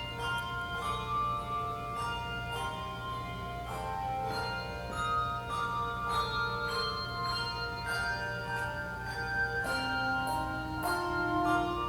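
Handbell choir playing a tune: struck handbells ringing with long sustains, several notes sounding at once.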